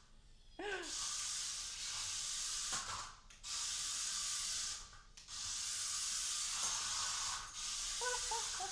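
Mini RC stunt roller car's small electric motors whirring high-pitched as it is driven, in three long runs with short pauses between them as the controls are let go. A short voice sound comes about half a second in and again near the end.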